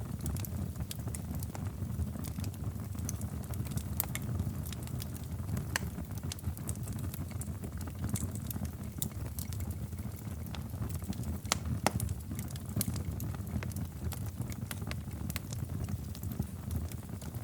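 Wood fire in a fireplace crackling: irregular sharp pops and snaps over a steady low rumble, with a louder pop about twelve seconds in.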